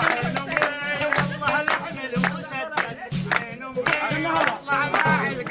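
Rababa, the bowed single-string Bedouin fiddle, playing a wavering melody over a steady beat of sharp hits, about three to four a second.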